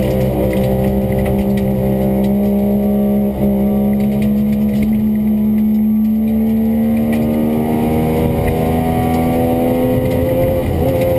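Classic rally car's engine running hard at high revs, heard from inside the cabin on a special stage. The engine note dips briefly about three seconds in, then holds and climbs slowly toward the end.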